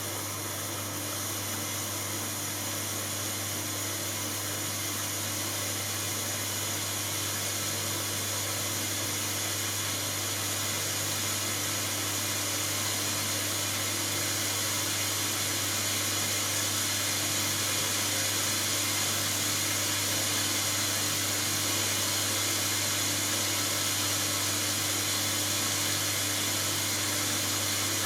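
Hoover Dynamic Next DXA610IW3 washing machine running in its last rinse: a steady electric motor hum with a low tone, growing slightly louder.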